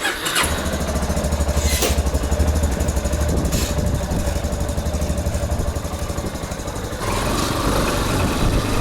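Yamaha Teneré 250's single-cylinder engine running as the motorcycle is ridden, starting abruptly and growing louder about seven seconds in.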